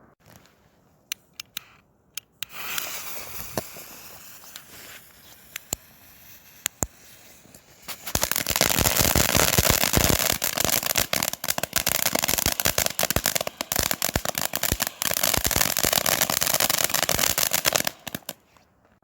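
Firework fountain burning: a few sharp snaps, then a hissing spray of sparks that fades, then about ten seconds of loud, dense crackling that cuts off abruptly near the end.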